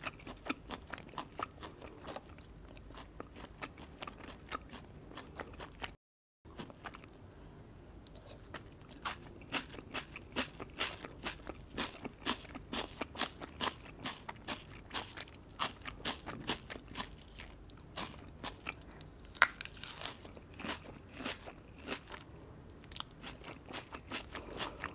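Close-miked chewing and crunching of food in the mouth, sparser at first, then thick and louder from about nine seconds on as a mouthful of crisp garden salad with shredded cabbage is eaten. The sound cuts out completely for a moment about six seconds in.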